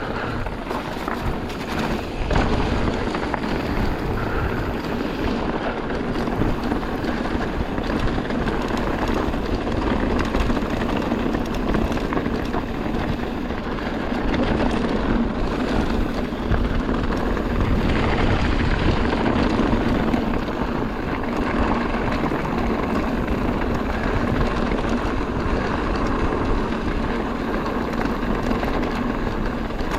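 Mountain bike ridden along a dirt trail: steady wind noise on the microphone over the rumble and rattle of the bike on rough ground.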